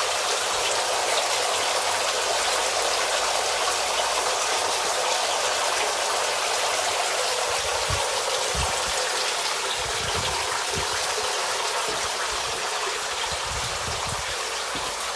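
Pond water pouring steadily from the outlet of a pump-driven homemade filter back into a fish pond, an even splashing gush. A few brief low thumps come in over the second half.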